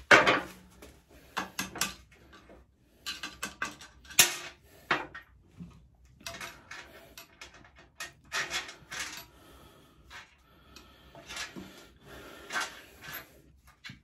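Irregular metallic clinks and clicks of small steel parts being handled: washers being taken off a pit bike's swingarm pivot bolt.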